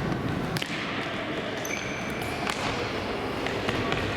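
Futsal ball being kicked and bouncing on an indoor court, a few sharp thuds over the echoing hall din, with brief high squeaks of shoes on the floor.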